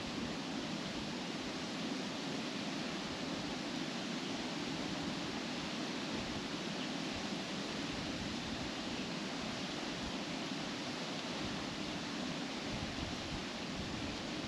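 Wind blowing through trees, a steady rushing rustle of leaves.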